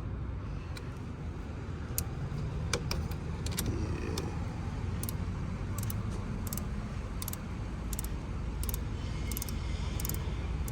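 Sharp metal clicks from a socket ratchet loosening a car battery's terminal or hold-down bolt. They come unevenly at first, then settle into an even pace of about one every two-thirds of a second from about halfway through. A steady low vehicle rumble runs underneath.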